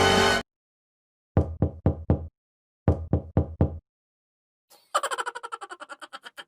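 Knocking sound effect: two quick groups of four sharp knocks, like knuckles on a door. Near the end, a fast rattling run of pulses with a falling pitch begins.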